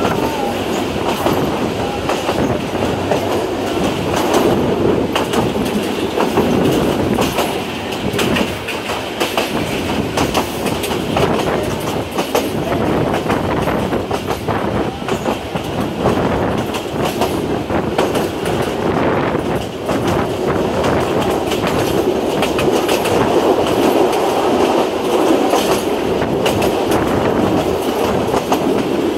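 Dolonchapa Express passenger coaches rolling past, wheels clicking over the rail joints in a steady clickety-clack, with continuous running noise from the train.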